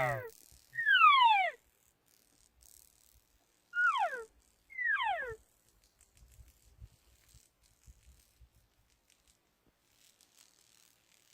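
Elk cow calls: four short mews, each sliding down steeply in pitch, heard in two pairs, the second pair about four to five seconds in.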